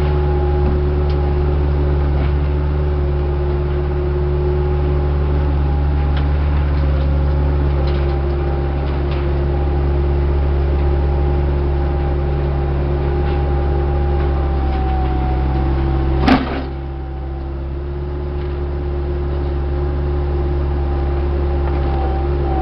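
Diesel engine of heavy equipment running steadily, a low drone with a steady whine above it. About 16 seconds in there is a single sharp bang, and the engine briefly drops in level before building back up.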